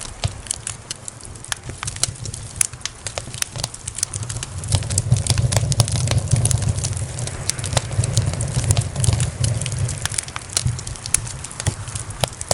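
Wood fire in a fireplace crackling, with frequent sharp pops and snaps over a low rumble that grows louder about four or five seconds in.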